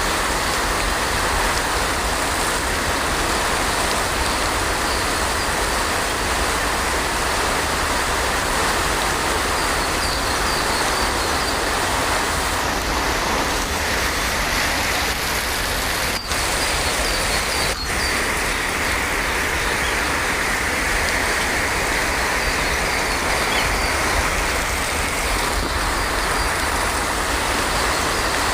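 Heavy rain falling steadily, a dense even hiss with no thunder, broken twice by a momentary dropout a little past halfway.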